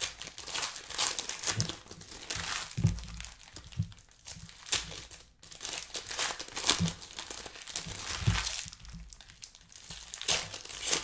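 Plastic trading-card pack wrappers crinkling and tearing as packs are opened and the cards handled, in a run of irregular crackles and rustles.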